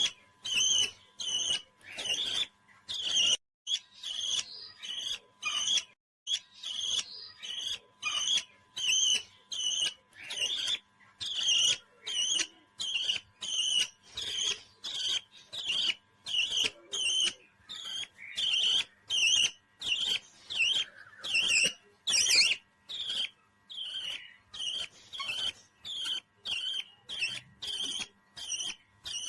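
A pet parrot calling over and over in short, high chirps, about two a second, in an even rhythm.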